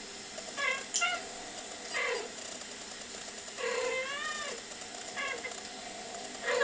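Domestic cats meowing: a series of short meows, with one longer meow of wavering pitch near the middle.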